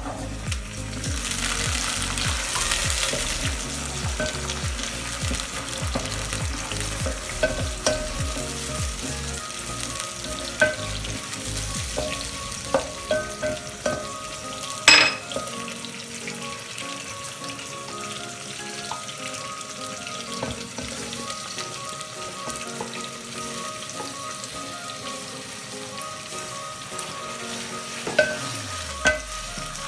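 Food frying in hot oil in a pan while a utensil stirs it. The sizzle is loudest in the first few seconds. Small clicks of the utensil against the pan come throughout, with one sharp knock about halfway.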